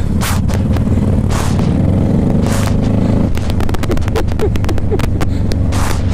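Motorcycle engine running steadily while riding, with gusts of wind hitting the microphone. About halfway through, the engine note eases and a quick run of clicks is heard.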